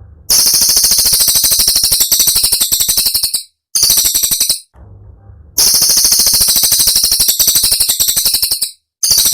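Cililin bird song: high-pitched rapid trills of sharp, closely spaced notes (the 'tembakan' bursts), in several long runs, the longest about three seconds, separated by short pauses.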